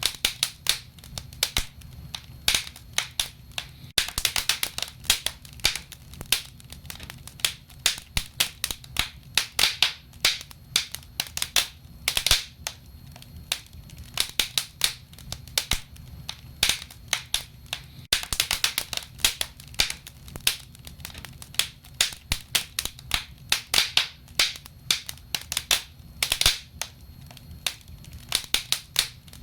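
Wood fire burning, crackling with frequent irregular sharp pops and snaps, some in quick clusters, over a low steady rumble.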